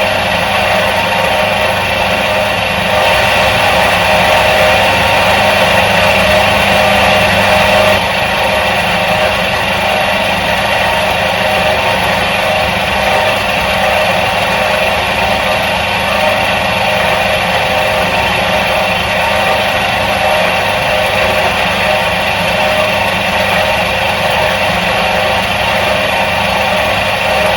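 Electric motor of a 1977 Soviet washing machine running steadily, a continuous mechanical hum, a little louder for a few seconds early in the stretch before settling back.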